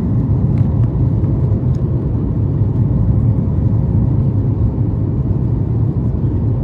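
Steady low cabin rumble inside a Boeing 737 MAX 9: engine and airflow noise, with a faint steady hum above it.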